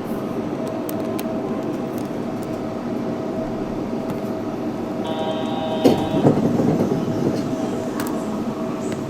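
Yurikamome 7300-series rubber-tyred automated guideway train running, heard from inside the car: steady running noise with a steady hum. About five seconds in a brief high squeal sounds for about a second, with a couple of knocks just after.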